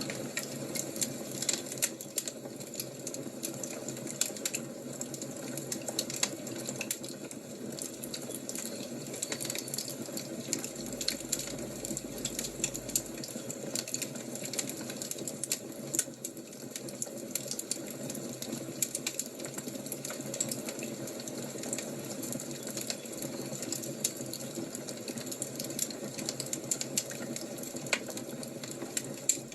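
Wood fire crackling: a steady low rush of flame with frequent small, sharp pops and snaps scattered irregularly throughout.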